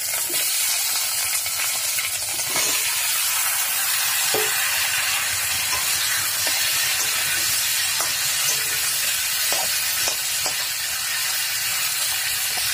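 Potato and raw green banana pieces sizzling in hot oil in a metal kadai, a steady hiss, with a few light clicks scattered through it.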